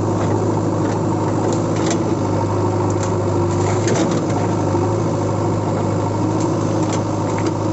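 Steady engine-like mechanical running with a constant low hum and scattered clicks.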